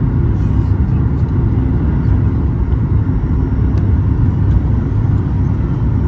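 Steady low rumble of a Boeing 737 MAX 8 in flight on approach, its engines and rushing air heard from inside the passenger cabin.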